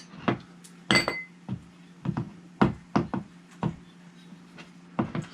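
Hands handling generator metal parts and tools: a series of about ten clicks and knocks, with one ringing metallic clink about a second in.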